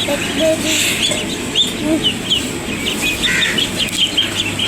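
Chickens clucking amid birds chirping, with many short high chirps repeating quickly.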